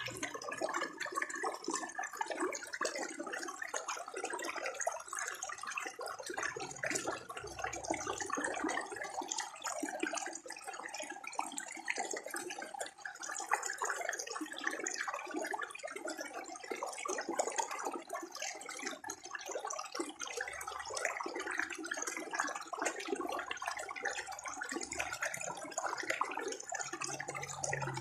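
Running water gurgling steadily in a stream, a continuous bubbling babble.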